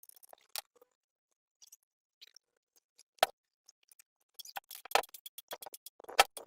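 Scattered clicks and knocks of metal tools and engine parts being handled. There are three sharper knocks about three, five and six seconds in, and a quick run of clicks over the last two seconds.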